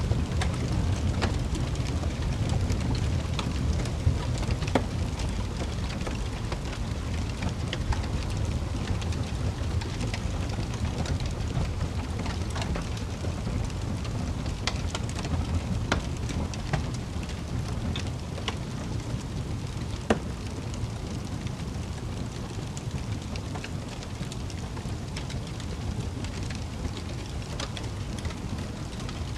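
Wood fire crackling in a fireplace: a steady low rumble of flames with scattered sharp pops and snaps, one louder pop about twenty seconds in.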